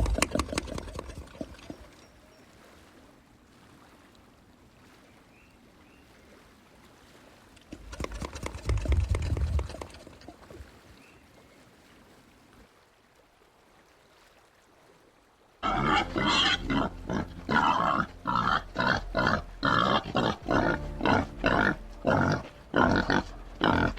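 White-lipped peccary calls: a short loud outburst at the start and another about eight seconds in, then from about sixteen seconds on a steady run of rapid grunts, about two a second.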